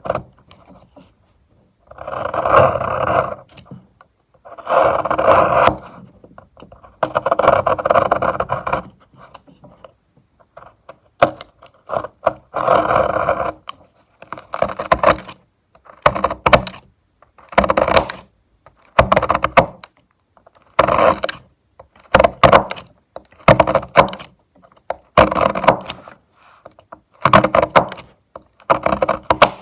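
A utility-knife (box cutter) blade shaving a bar of Cow Brand milk soap in repeated strokes. The first strokes are long and slow; about halfway through they turn shorter and quicker, roughly one a second, each beginning with a sharp scrape.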